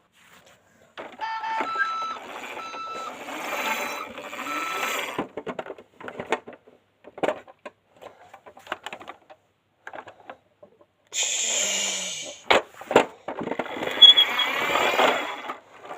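Toy garbage truck's electronic sound effects: a hissy engine-like noise with short repeated beeps, then scattered plastic clicks and clatter before the noise starts again.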